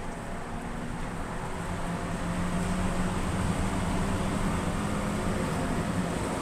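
Car engine pulling under load during a test drive, with road noise, getting gradually louder as the car accelerates. The engine picks up speed normally, with no excess revving.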